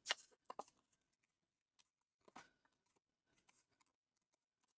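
A few faint, short crackles of a small paper square being folded and creased by hand, with quiet between them.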